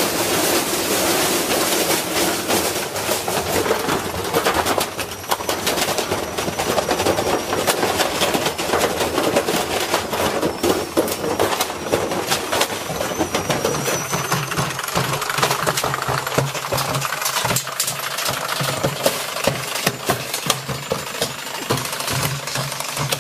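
Washing machine running with a heavy object loaded in its drum, banging and rattling in a continuous, violent clatter of knocks from the badly unbalanced load. About two-thirds of the way in, a steady motor hum comes up under the banging.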